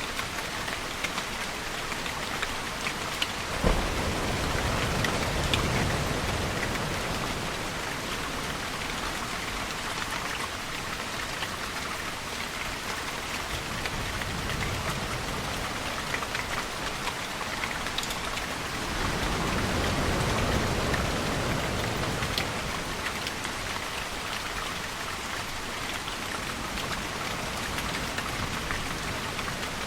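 Steady heavy rain falling. Two low rumbles of distant thunder swell under it: one begins with a sharp crack about four seconds in, and a softer one builds about twenty seconds in and fades.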